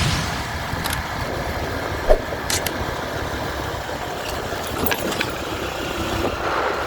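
Motorcycle engine running with a steady low rumble, and a brief thump about two seconds in.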